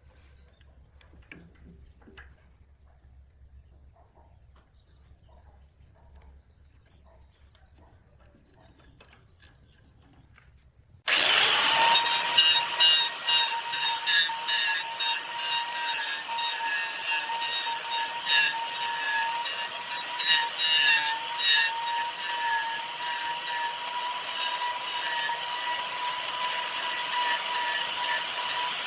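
Faint scattered clicks, then about eleven seconds in a power tool starts abruptly and runs steadily on wood with a high, even whine.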